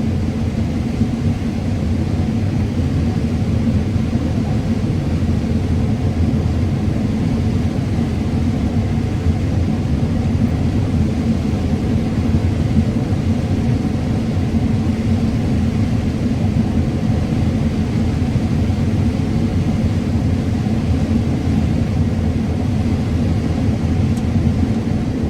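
Combine harvester running steadily while harvesting corn, a constant low rumble and drone.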